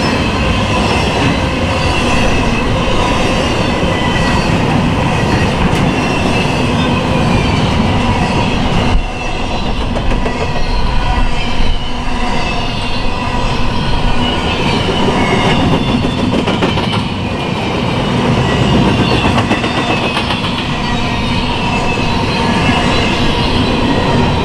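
Empty intermodal well cars of a freight train rolling past: steady noise of steel wheels on the rails, with thin high squealing tones from the wheels.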